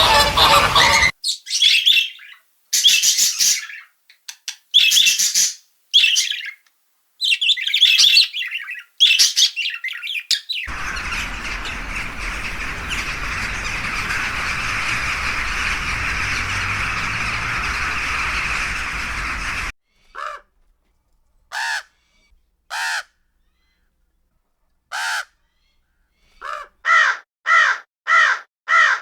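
Birds calling. Loud, harsh squawks come in short bouts for about ten seconds, then a steady noisy stretch lasts about nine seconds. After that come a few spaced single calls and, near the end, a quick run of repeated caws at about two a second.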